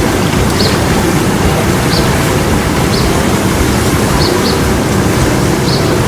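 A bird chirping, short high chirps about once a second, over a loud, steady rushing noise.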